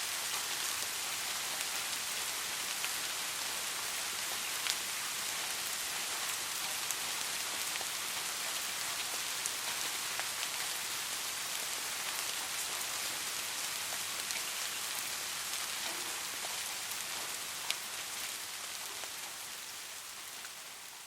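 Soft rain falling steadily: an even hiss with scattered sharp drop ticks, fading out over the last few seconds.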